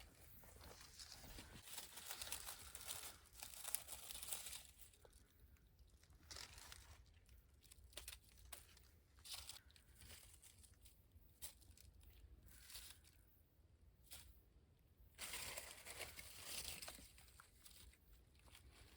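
Faint crinkling and crunching handling sounds with scattered clicks, busiest in the first few seconds and again near the end, with a quieter stretch in between.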